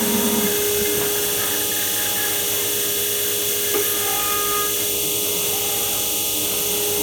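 MAKA 5-axis CNC machining centre running, its high-speed spindle giving a steady high whine over a constant hum.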